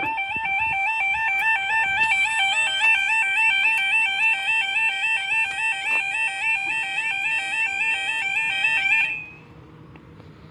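Railway level crossing audible warning alarm: a loud two-tone yodel that alternates rapidly between two pitches, then cuts off suddenly near the end.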